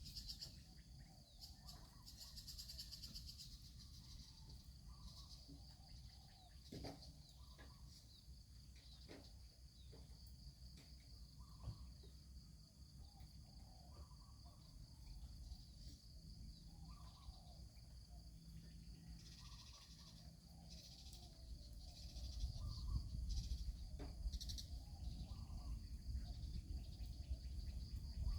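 Outdoor ambience: a steady high-pitched insect drone, with a bird calling over and over about every two seconds. A few sharp clicks are scattered through it, and a low rumble grows louder in the last few seconds.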